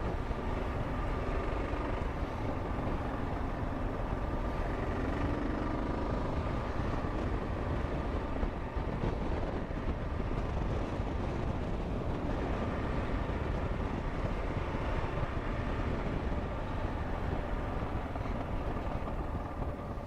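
Motorcycle engine running steadily under way, mixed with wind and road noise on a helmet-mounted camera.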